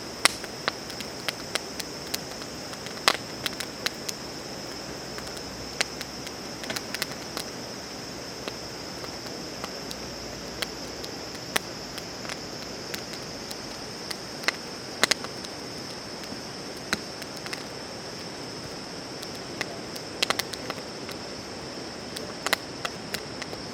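Wood fire crackling with sharp, irregular pops, over a steady high-pitched insect chorus.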